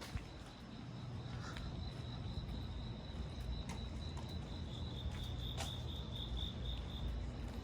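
Crickets chirping in a steady high trill over the even hiss of rain, with a low rumble underneath that grows about a second in and a few faint ticks.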